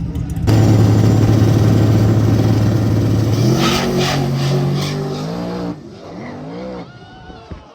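Drag race cars launching down the strip: a loud engine note starts about half a second in and holds one pitch, jumps up and climbs at about three and a half seconds, then falls in pitch and fades as the cars run away downtrack.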